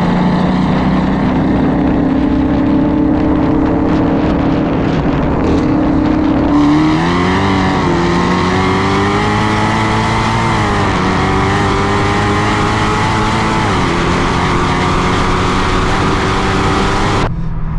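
A car engine running steadily, then, about six seconds in, pulling harder with its pitch climbing. The pitch drops sharply twice, as at upshifts, before the sound cuts off near the end.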